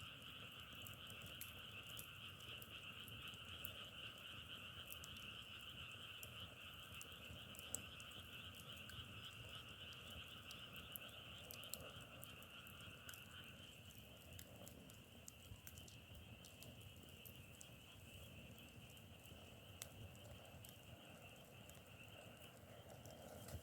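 A faint chorus of frogs calling continuously in two pitch layers, a lower one and a higher one; the lower layer drops out a little past halfway while the higher carries on. Scattered faint sharp clicks sound through it.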